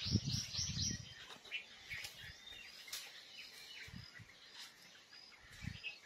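Small birds chirping: a fast run of short, high chirps in the first second, then scattered single calls. A few low thumps are heard, the loudest about a second in.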